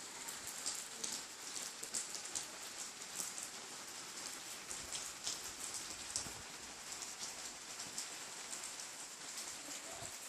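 Steady rain falling, a constant hiss with many sharp drips and drops ticking on hard surfaces.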